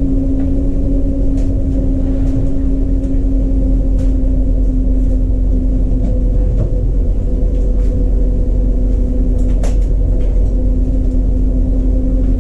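Steady machine hum with a constant pitch and a low rumble underneath, with a few faint clicks and knocks along the way.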